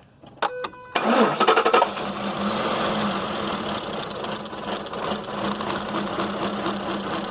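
Ford 5.4-litre V8 cranked by the starter and catching about a second in, then idling steadily. It is misfiring: the coils on cylinders 7 and 8 are getting no firing signal.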